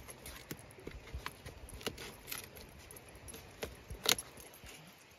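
Digging in the ground to get out a wild yam: irregular scrapes, clicks and knocks, with one louder knock about four seconds in.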